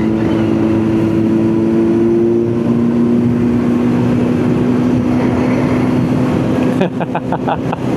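Kawasaki Z900's inline-four engine running at a steady cruising speed, with a steady drone that drifts slightly upward in pitch over rushing wind noise. A short fluttering noise comes near the end.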